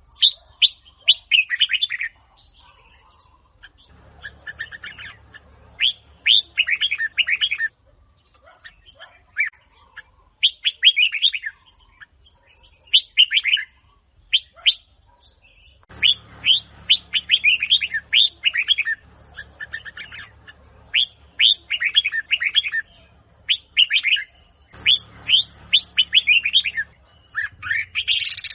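Red-whiskered bulbul (Huế chào mào) singing: bursts of quick, sweeping chirpy phrases repeated with short pauses between them.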